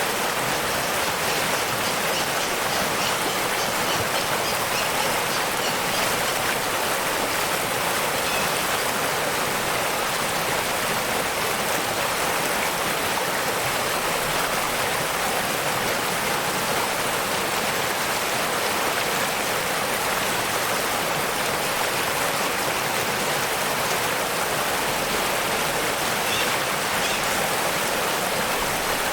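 Steady rushing of falling and flowing water from a waterfall, an even, unbroken hiss.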